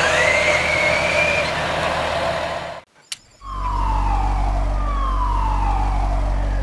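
Cartoon vehicle sound effects: a rising whistle-like tone, then, after a brief drop-out about three seconds in, a steady low engine hum with two long falling tones sliding down over it.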